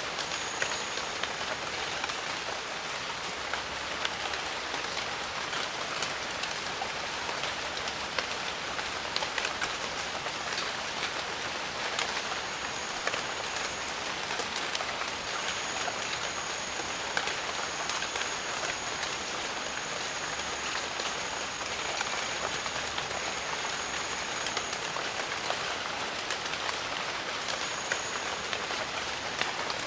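Steady heavy rain: a dense hiss of falling water with many small drop ticks throughout. A thin, high, steady tone comes and goes several times, longest through the middle.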